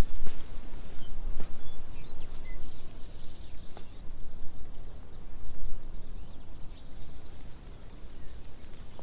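Outdoor ambience: a steady low rumble with scattered knocks and clicks, and a few faint short high chirps like birds.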